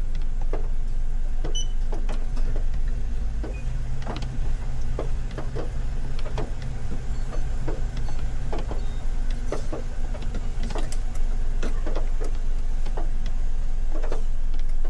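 Car idling, a steady low hum, with scattered light taps at irregular intervals.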